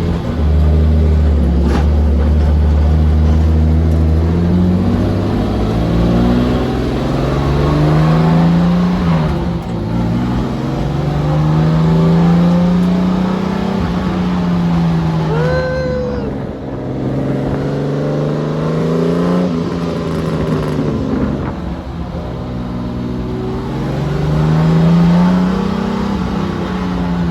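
Freshly rebuilt turbocharged BMW M50 inline-six running steadily at first, then revved slowly up and down again and again, held around 4,000 rpm each time, as break-in running. A brief high chirp sounds about halfway through.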